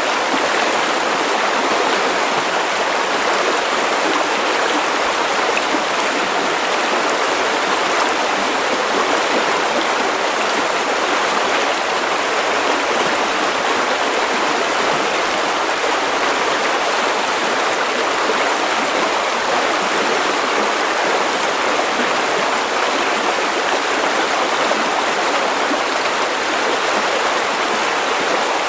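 River water running over stones: a steady, even rushing and babbling.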